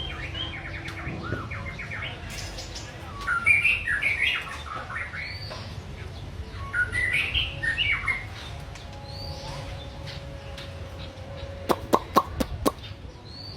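A songbird singing in short, loud warbled phrases, with single curved whistles between them, and a quick run of about six sharp clicks near the end.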